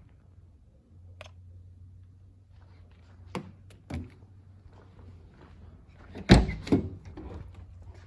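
A few clicks and knocks, then two heavy thunks about six seconds in, the loudest of them a vehicle door being shut. A low steady hum runs underneath.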